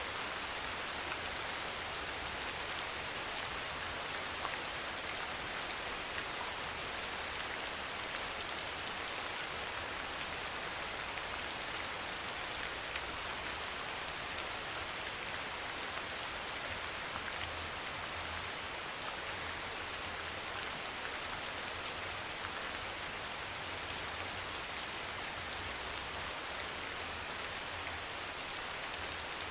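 Steady soft rain falling, an even hiss with scattered drop ticks. A faint low rumble comes and goes in the second half.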